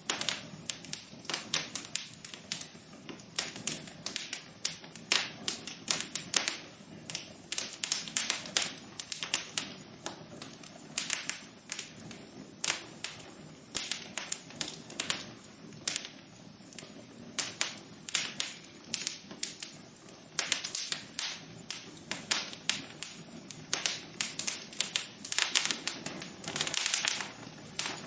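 Wood fire crackling in a fireplace: a steady low hiss with dense, irregular sharp pops and snaps, several a second.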